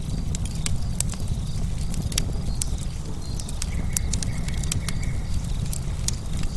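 Wood fire crackling, with many sharp irregular pops from the burning logs over a low steady rumble of the flames. Faint crickets chirp steadily in the background.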